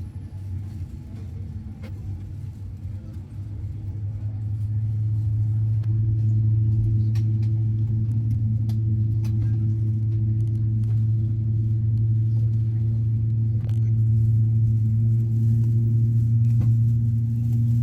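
Boeing 787-10 jet engine starting up, heard from inside the cabin: a low hum that swells over the first several seconds and then holds steady, with two higher steady tones joining partway through. A few faint clicks sound over it.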